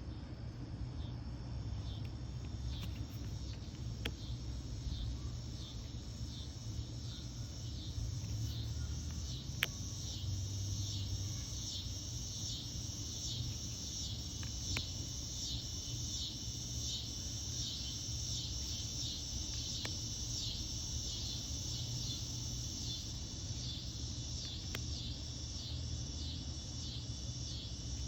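An insect chirping in a steady, even rhythm, about one and a half chirps a second, over a low steady hum, with a few faint clicks.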